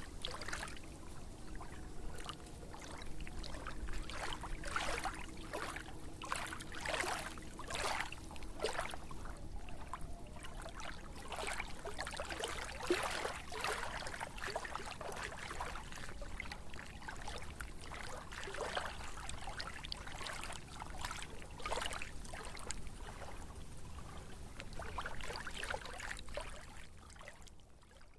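Water trickling and splashing in irregular bursts over a steady rush, fading out at the very end.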